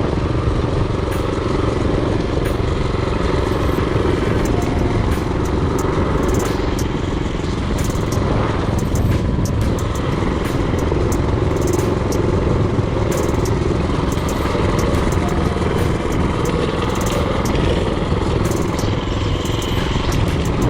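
Mini-bike's Predator 224cc single-cylinder four-stroke engine running steadily while riding, with scattered light clicks and rattles over it.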